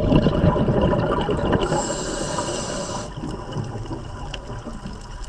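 A sudden splash into water followed by water churning and sloshing that fades over a few seconds.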